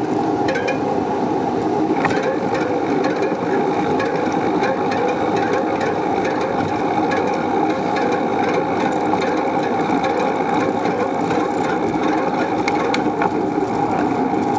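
Steady rolling noise of a bicycle in motion, with tyre and road rumble and many small rattles and clicks from the bike and camera mount.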